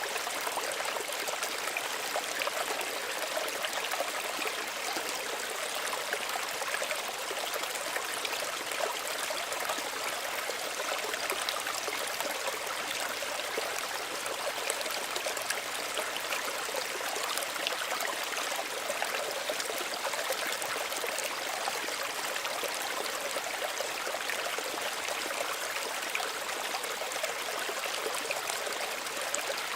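Small stream running and trickling steadily over stones, a continuous bright babble with fine splashes.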